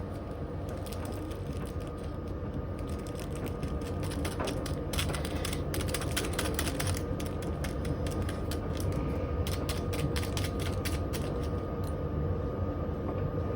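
Washing machine spinning with a stone inside as it falls to pieces, a fast clattering rattle over a steady motor whine. The clattering comes in dense runs, thickest midway and again near the end.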